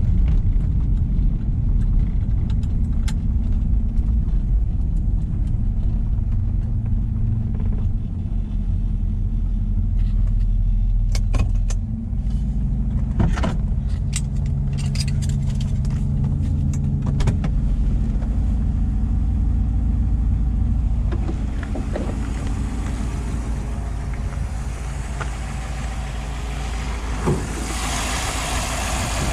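1956 Ford Thunderbird's V8 engine running as the car pulls in and stops, heard from inside the cabin, then settling to a steady, quieter idle about two-thirds of the way through. A scattered run of sharp clicks and knocks falls in the middle, and one knock comes near the end.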